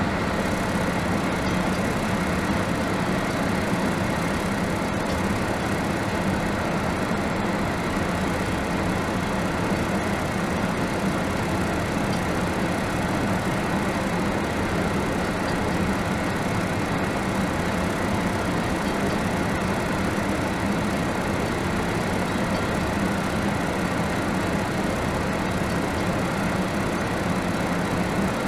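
Steady rumble of a coal train's hopper wagons rolling past a level crossing, heard from inside a stopped car, with no clear wheel clacks.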